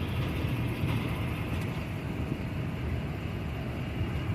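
Freight train rolling past a grade crossing: a steady low rumble of wheels on rails.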